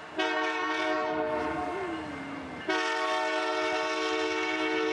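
Train horn sounding two blasts, a chord of several steady tones. The first lasts about two and a half seconds, and the second begins just after it stops and is still held at the end.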